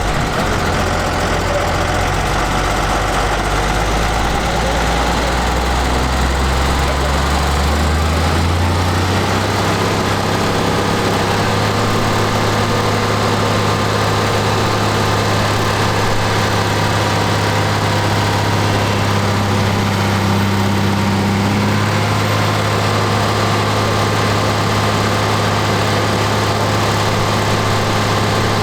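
Deutz-Fahr Agrotron M620 tractor engine running on a dynamometer test. It rises in pitch about eight seconds in, then holds steady at the higher revs.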